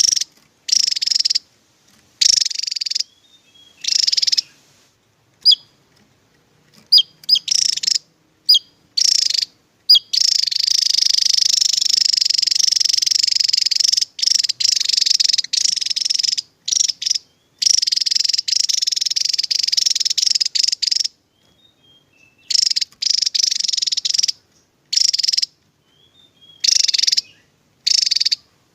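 Javan tesia singing in rapid, high, dense trilling bursts, its 'tembakan' (shot-like) song. Most bursts last about a second, two long runs go on for several seconds in the middle, and a few short sharp chirps come in the gaps.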